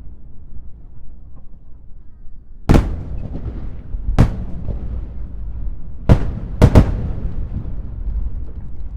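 Aerial firework shells bursting: five loud bangs, the first about three seconds in and the last two in quick succession, with a low rumble carrying on between them.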